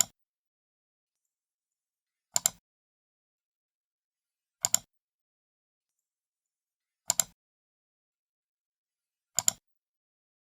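Computer mouse left button clicked about every two and a half seconds, five times, each click a quick pair of snaps as the button is pressed and released, with silence between.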